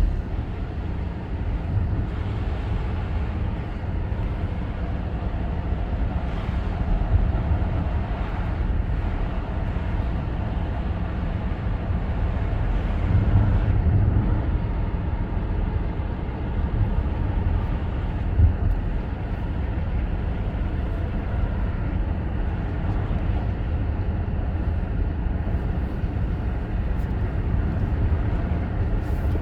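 A car driving on the road: a steady low rumble of engine and tyre noise, swelling briefly about halfway through.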